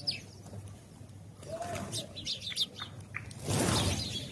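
House sparrows chirping in short, repeated high notes. About three and a half seconds in, a loud rush of noise lasts under a second.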